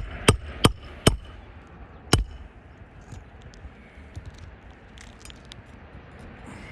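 Five sharp metal hammer blows on a roofing snake, four in quick succession then one more about a second later, driving a roofing nail through a shingle into the roof decking.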